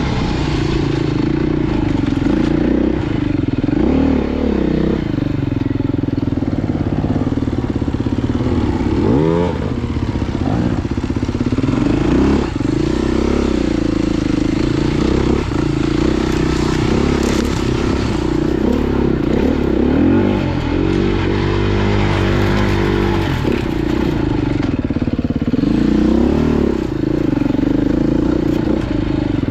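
Off-road motorcycle engine running hard. Its pitch rises and falls continually with the throttle, with a few quick sharp revs.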